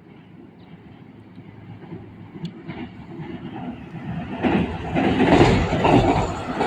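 Train approaching and growing steadily louder, its wheels knocking over rail joints in uneven beats from about four seconds in.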